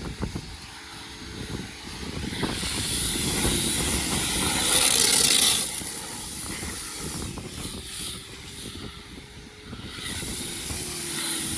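Pressure-washer spray rinsing a car, a steady rushing hiss. It grows louder and brighter over the first few seconds, drops back about halfway through, then picks up again near the end.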